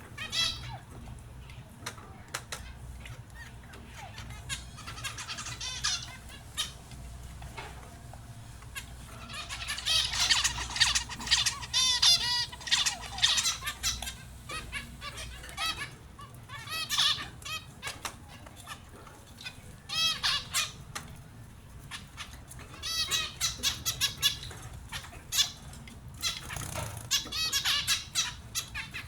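Small finches chirping in quick, high-pitched bursts, busiest a third of the way in and in several shorter flurries later.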